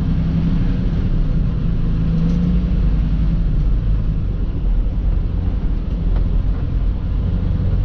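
Semi truck's engine running with a steady low rumble, heard from inside the cab as the truck is driven at low speed for a U-turn.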